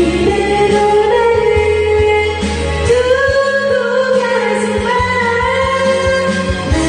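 Karaoke backing track playing, with a voice singing a slow melody along with it.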